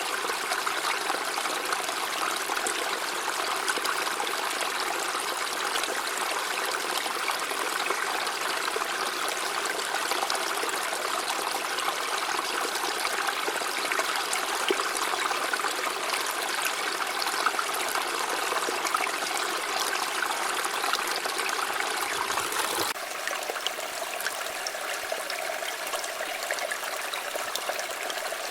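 River water flowing and babbling steadily. About 23 s in, the sound changes abruptly to a slightly quieter stretch of running water with a different tone.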